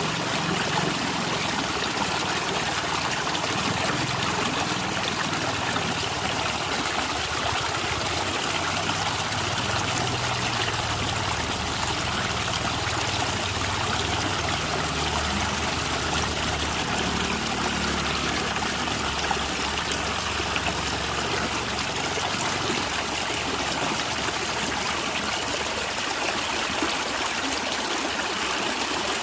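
Natural stream running steadily, the water trickling and gurgling without a break, with a low shifting rumble under it.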